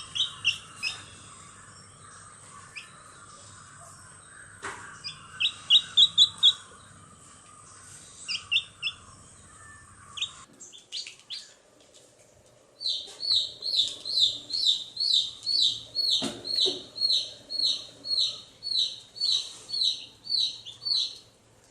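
A bird chirping in short repeated calls, in scattered bursts of several quick chirps at first, then, after a change in the background about halfway through, a steady run of about two chirps a second.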